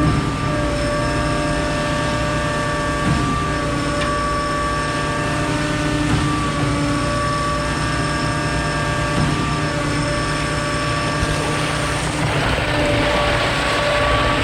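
Concrete pump truck's diesel engine running steadily at constant revs, with a few faint knocks. A broader rushing noise rises near the end.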